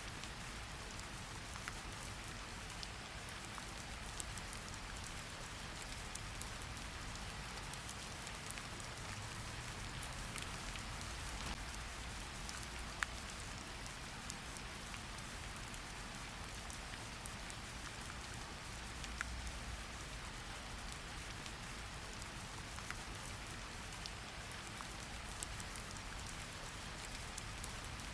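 Steady rain falling, a continuous hiss with scattered drops ticking on a surface; a few drops land louder, about 13 and 19 seconds in.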